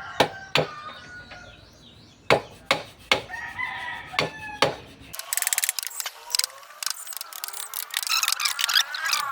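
A rooster crowing, with sharp knocks in between. After about five seconds the sound changes abruptly to a dense, high-pitched chirping, squeaky sound with no low end.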